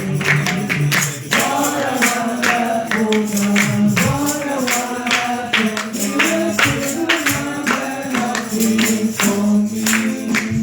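Gospel singing in church, with a tambourine struck on a steady, even beat over a held low accompanying note.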